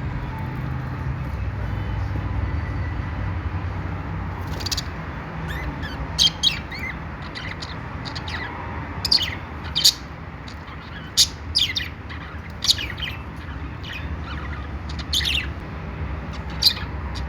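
Budgerigars giving about a dozen short, sharp chirps, scattered and starting about five seconds in, over a steady low hum.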